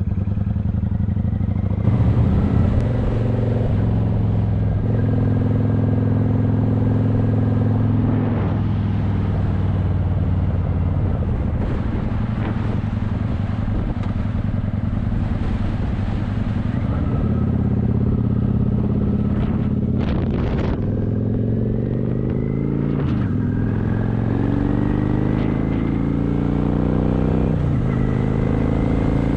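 Motorcycle engine running under way, with wind rushing over the microphone. Late on, the engine note climbs several times and drops back between climbs as the rider shifts up through the gears.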